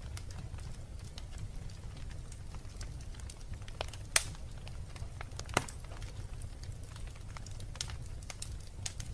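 Wood fire burning in a fireplace: a steady low rumble of flame with scattered crackles, and two sharp loud pops about four and five and a half seconds in.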